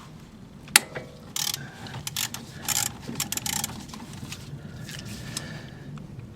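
Ratchet wrench clicking in short, irregular bursts while a 14 mm nut holding the brake line bracket to the front strut is loosened, after one sharp click a little under a second in.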